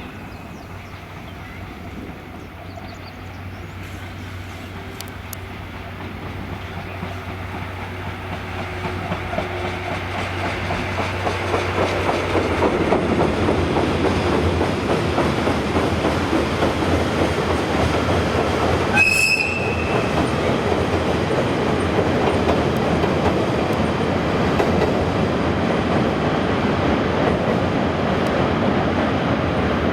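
A diesel train on the Suigun Line, its wheels running on the rails, grows louder over the first dozen seconds and then passes steadily and loudly close by. It gives one short horn blast about two-thirds of the way through.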